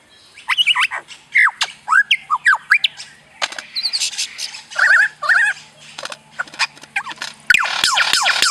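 Hoolock gibbon calling: a string of high whooping calls that swoop up and down in pitch. Near the end they turn into a fast, dense run of falling calls.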